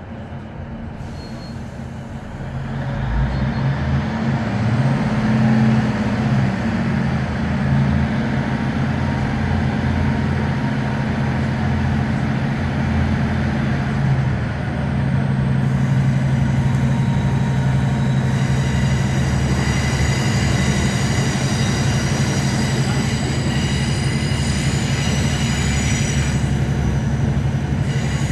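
Class 156 Super Sprinter diesel multiple unit's Cummins diesel engine under power. It gets louder and rises in pitch about three seconds in as the train accelerates, dips briefly around halfway, then runs steadily with a high whine joining in the later part.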